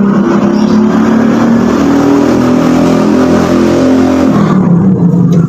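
A motor vehicle's engine revving, its pitch rising for about four seconds and then dropping back near the end.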